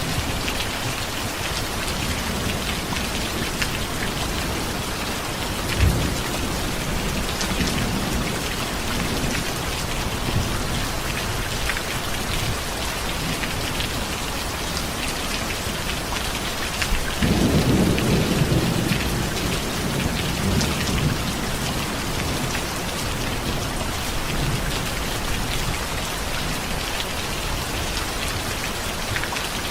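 Steady heavy rain falling on a surface, with a low rumble of thunder swelling a little over halfway through and fading after a few seconds.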